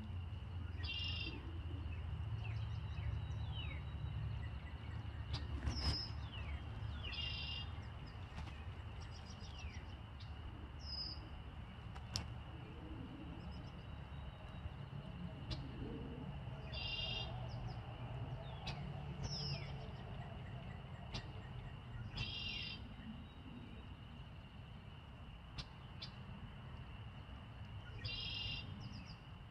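Songbirds calling outdoors: short chirping calls repeated every few seconds, over a steady low background rumble.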